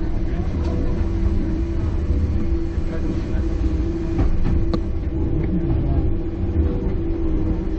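Enoshima Electric Railway electric train running: a steady low rumble with a steady hum over it.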